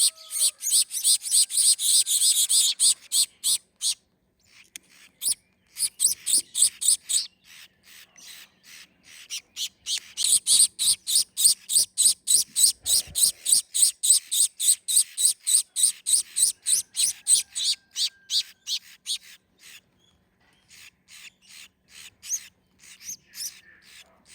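Gouldian finch chicks begging for food while being hand-fed: a rapid run of short, harsh, high chirps, about three or four a second, breaking off briefly a couple of times.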